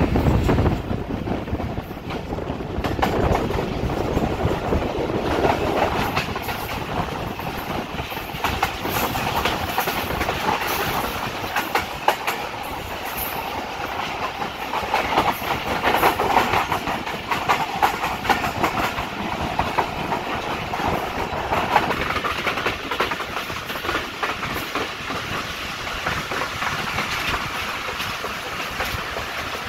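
Passenger train running at speed, heard from an open window of a moving coach: a steady rumble of wheels on the rails with scattered clicks and clatter from the track.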